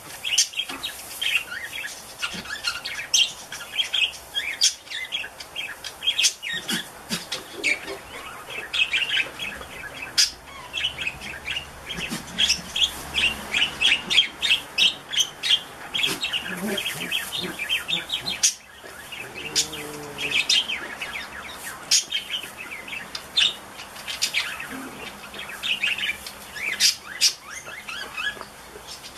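Small birds chirping busily, many quick short chirps in a continuous chatter, with a few lower calls in between.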